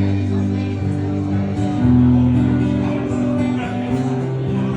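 Acoustic guitar strumming held chords, the instrumental outro of a country song after the last sung line.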